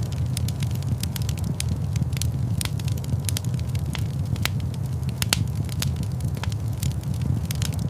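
Fire burning in a large stone fireplace, crackling with frequent irregular sharp pops and snaps over a steady low rumble.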